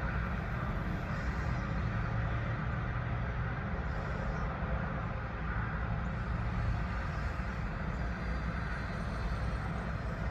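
Steady road and engine noise of a vehicle driving, a continuous low rumble with no distinct events.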